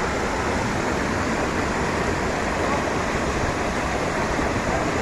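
Steady rushing of heavy tropical-storm rain and wind, an even roar with no breaks.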